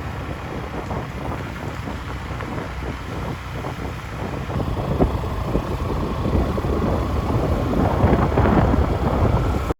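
Wind buffeting the microphone while riding a motorbike, with the engine running beneath it; the wind grows louder over the last few seconds.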